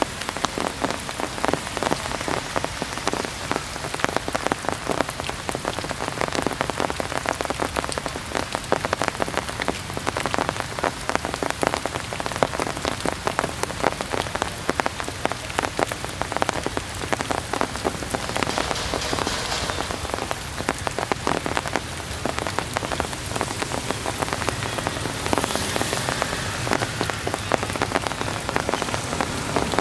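Heavy rain falling steadily, a dense stream of drops striking a surface.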